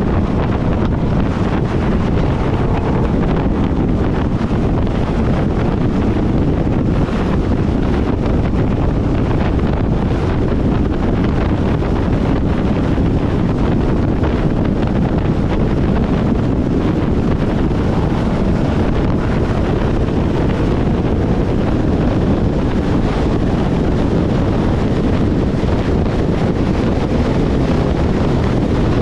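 Steady, loud wind rushing over the microphone, an even rumble with no breaks.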